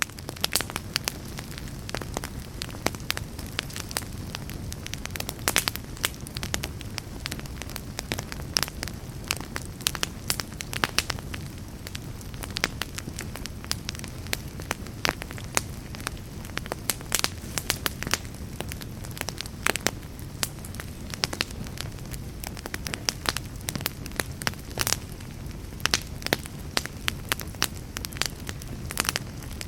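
Fire crackling in a fireplace: a steady low rush of flames with frequent sharp pops and snaps.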